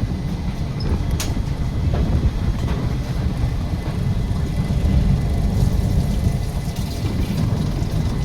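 Passenger train running, a steady low rumble with a few faint clicks from the track.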